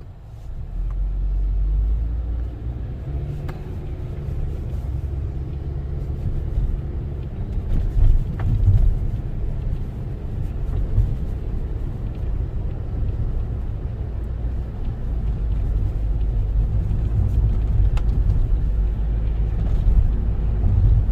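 A car driving on the road, its engine and tyres giving a steady low rumble that swells as it picks up speed about a second in. A few faint knocks are heard along the way.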